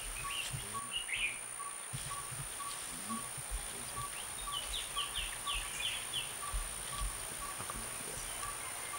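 Outdoor bird and insect ambience: a bird gives a quick run of about seven short chirps about halfway through, over a soft pip that repeats about twice a second and a steady high whine. Occasional soft low thumps are mixed in.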